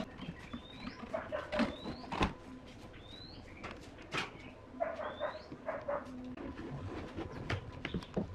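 A bird chirping over and over, each call a short rising note, every second or so. Scattered clicks and knocks come from bent wooden strips being handled on a workbench.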